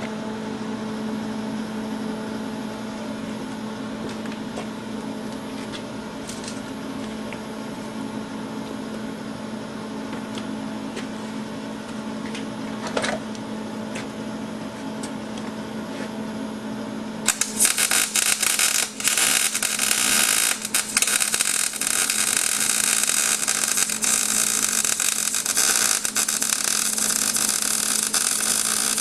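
Miller welder humming steadily, then about 17 seconds in the arc strikes and a loud crackling weld runs on steel, with a few brief breaks as the bead is laid.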